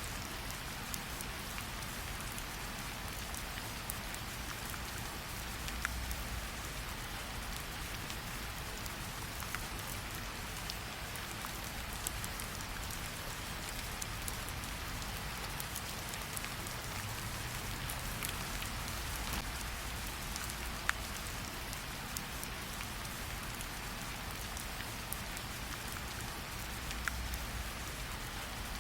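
Steady rain falling, with a campfire crackling in scattered sharp pops, a few louder ones every several seconds.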